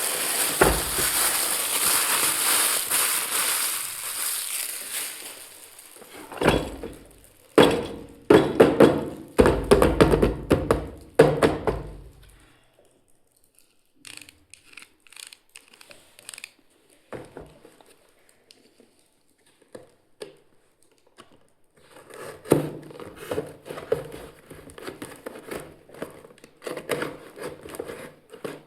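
Packaging crinkling for the first few seconds, then a run of knocks and clicks as toy kitchen pieces are unpacked and handled, with a quieter stretch of scattered small clicks in the middle.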